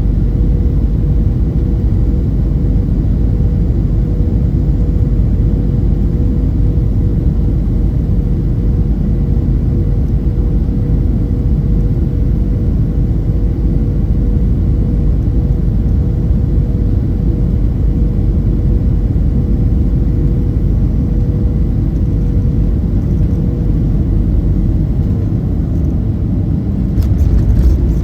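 Steady cabin noise of a Boeing 737-800 with its CFM56 engines in flight: a loud, even rumble of engines and airflow with a thin steady hum over it. About a second before the end it gets louder, with a few sharp knocks.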